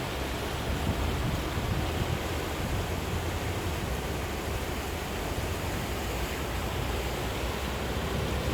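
Kamienica river running high after heavy rain, a steady rushing of fast water with a deep low rumble.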